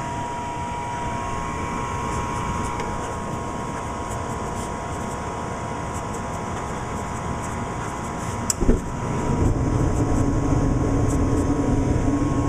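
Repaired gas furnace running with a steady blower hum and a faint whine. A single knock comes about two-thirds in, after which the running sound is louder with a low hum.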